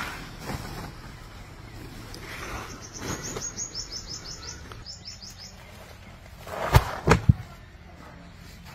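A bird chirping a quick run of short, high, falling notes for about three seconds. About seven seconds in come three sharp knocks close together, the loudest sounds.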